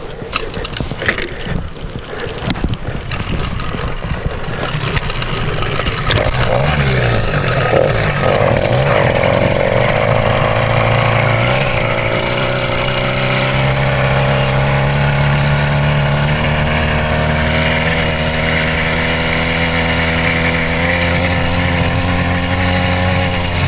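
66cc two-stroke motorized-bicycle engine with its frame rattling over the trail: at first it runs low under knocks and rattle, then about a quarter of the way in it revs up, rising in pitch, and holds a steady high-revving drone.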